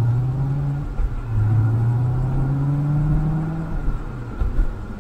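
Chevrolet C7 Corvette's 6.2-litre V8, heard from inside the cabin, accelerating with rising revs: a gear change about a second in, then the revs climb again before falling away near the end. It is pulling back up to speed between brake-pad bedding stops.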